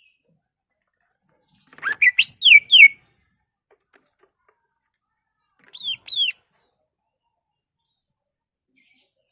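Cucak ijo (green leafbird) singing: a quick phrase of sharp, falling whistled notes about two seconds in, then two short falling notes about six seconds in.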